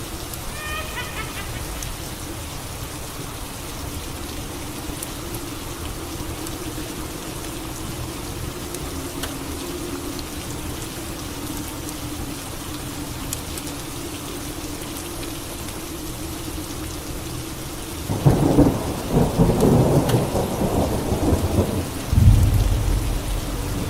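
Steady rain falling, then a thunderclap breaks loudly about eighteen seconds in and rolls for several seconds before settling into a deep rumble near the end.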